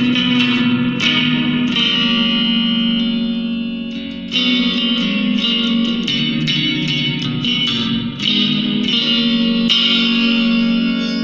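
Electric guitar played through a Nux MG200 modelling amp's plate reverb: picked notes and chords with a bright, long-ringing decay. The playing thins out about four seconds in, letting the tail fade, then picks up again.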